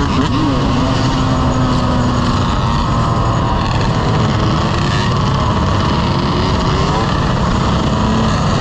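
Motorcycle engine running under way, its pitch rising and falling with the throttle, over loud, steady rushing wind noise.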